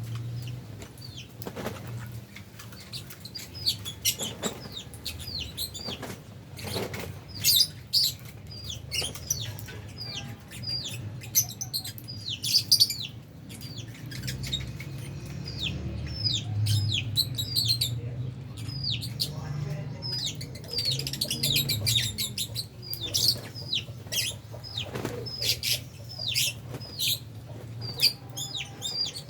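A colony of albino and Fisher's lovebirds chirping constantly: many short, high, downward chirps overlapping, with scattered sharp clicks and a steady low hum underneath.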